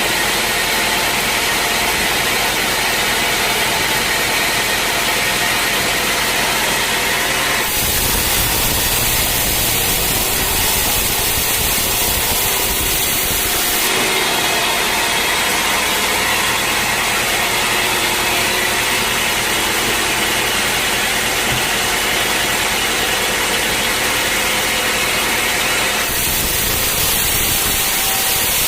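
Sawmill machinery running steadily and loudly while sawing teak logs: a continuous motor and saw noise. Its tone shifts abruptly about eight seconds in, again around fourteen seconds, and near the end.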